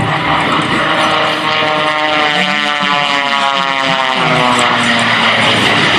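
Jet Waco biplane's 985-cubic-inch radial piston engine and propeller droning steadily in flight as the aircraft passes, its pitch sliding down through the middle.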